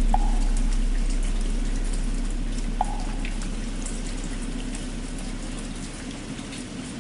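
Steady rain, with the deep hum of a struck bell slowly dying away. A wooden fish (muyu) gives two single hollow knocks, one at the very start and one nearly three seconds in.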